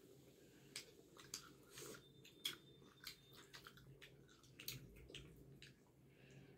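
Faint chewing and mouth clicks of people eating, with irregular soft smacks and one sharper click about two and a half seconds in, over a low steady room hum.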